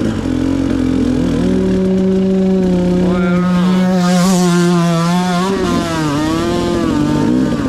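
Two-stroke dirt bike engine revving up about a second and a half in and holding high revs on the trail, easing off near the six-second mark, then picking up again near the end.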